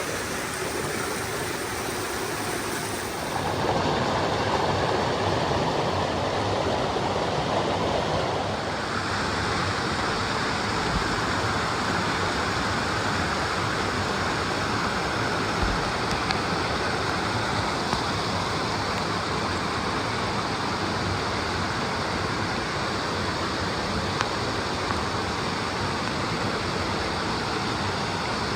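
Mountain stream water rushing, a steady noise that grows louder about three seconds in and turns brighter near nine seconds.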